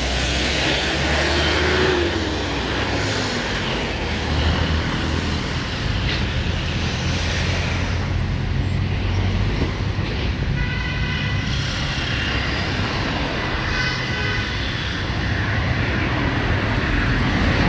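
Road traffic passing: a steady rumble of engines and tyres. A vehicle horn sounds about ten seconds in and again briefly a few seconds later.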